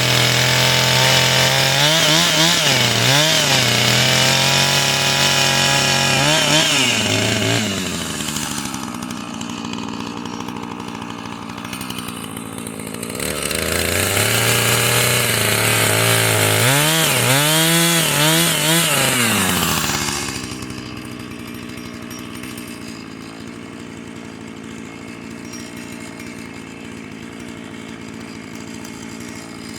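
Husqvarna two-stroke chainsaw cutting firewood: it runs at full throttle, and its pitch sags briefly a few times as the chain bites. It drops to idle about eight seconds in, revs up again for a second cut around thirteen seconds, then falls back to a steady idle at about twenty seconds.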